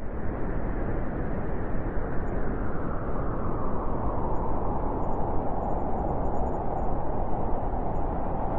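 Blizzard wind blowing hard and steadily, a dense rushing noise with a howling tone that grows stronger from about halfway through.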